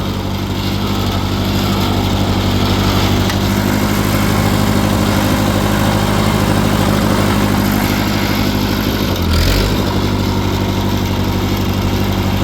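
Ford 8N tractor's four-cylinder flathead engine running steadily with a fast, even beat, with a brief low thump about nine seconds in.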